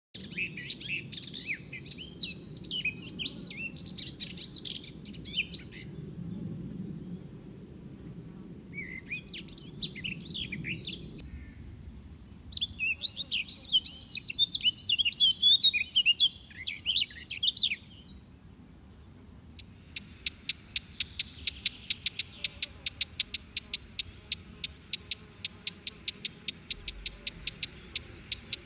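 Songbirds singing: several bursts of quick, varied chirping, then, about two-thirds of the way in, a rapid even series of sharp repeated notes, about five a second, that runs on.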